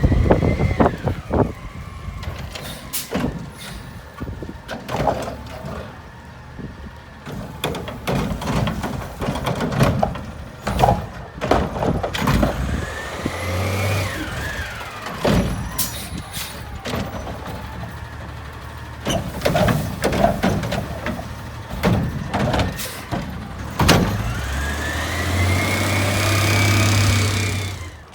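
Garbage truck with a Curotto-Can automated cart arm working: the engine revs up and back down several times to drive the hydraulics, with a long rev near the end. Repeated bangs and knocks of plastic carts and heavy yard waste come throughout.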